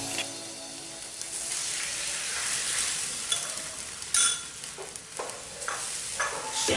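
Food frying in hot oil, a steady sizzle with a few light scrapes and clicks of stirring, and one sharp knock about four seconds in.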